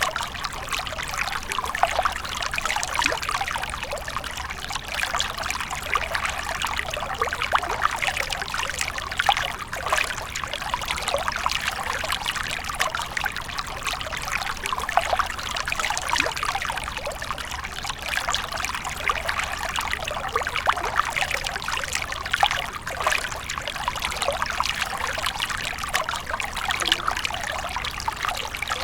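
Water from a fountain splashing and trickling steadily into a pool, a continuous bubbling, splashing sound without pauses.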